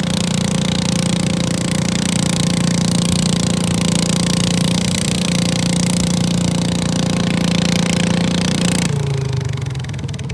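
Garden tractor engine running flat out at a steady, high speed, as in a garden tractor pull. About nine seconds in it cuts off abruptly, leaving a lower, quieter engine hum.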